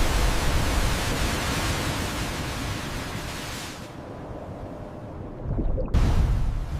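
Rushing seawater: a dense steady hiss over a low rumble, as of water pouring and churning. About four seconds in it turns muffled, with only the low rumble left, then the full rushing noise cuts back in abruptly near the end.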